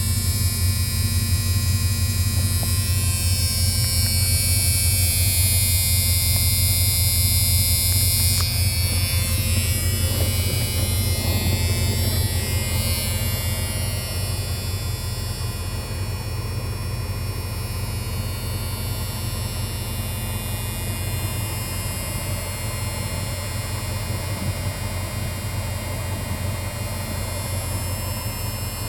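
1985 Mustang GT's 302 V8 idling steadily, a constant low hum.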